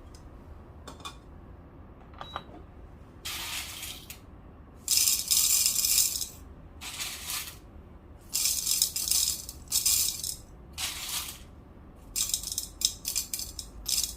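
Whole roasted coffee beans rattling as they are poured in several bursts into a dosing cup, to weigh out an 18-gram espresso dose. The loudest pours come about five and eight seconds in, with shorter trickles and small additions near the end.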